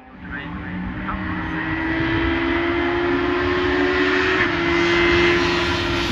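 VW Polo hillclimb race car's engine running hard at high revs, growing louder as the car approaches. The pitch rises slowly, then dips briefly about four and a half seconds in, like a gear change.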